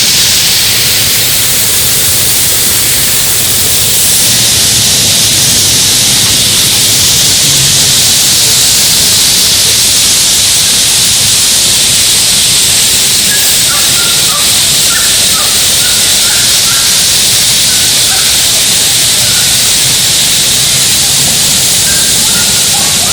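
Rushing water of a woodland waterfall cascading over rock ledges, a loud, steady hiss.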